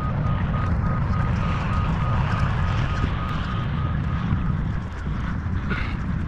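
A heavy machine's back-up alarm beeping in quick, even pulses over a deep, steady engine rumble and wind on the microphone; the beeping stops about four and a half seconds in.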